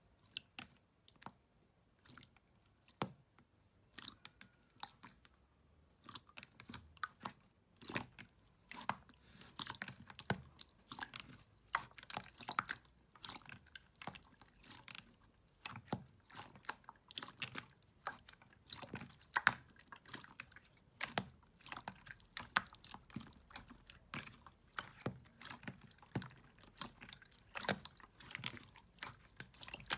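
Slime being handled, giving quiet, irregular sticky clicks and crackling pops, sparse at first and much denser from about six seconds in.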